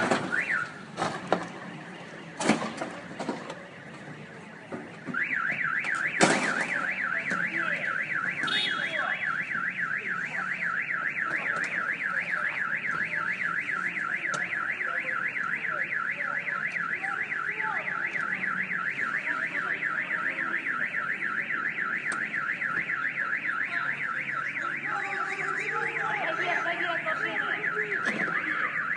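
A car alarm sets off about five seconds in and warbles rapidly up and down without pause. Before it and just after it starts there are a few sharp knocks or bangs, the loudest just after the alarm begins.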